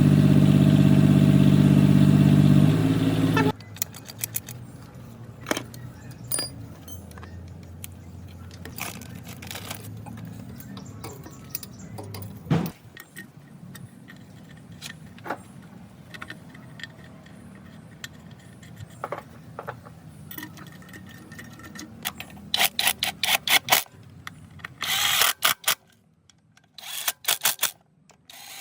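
Rebuilt Hyundai six-cylinder diesel engine running steadily, cutting off abruptly about three and a half seconds in. A low hum with scattered clicks and taps follows, with a run of rapid clicking near the end.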